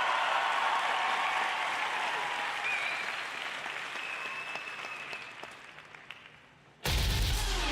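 Arena crowd applauding, the applause fading away over about six seconds. Near the end, program music with guitar starts suddenly and loudly.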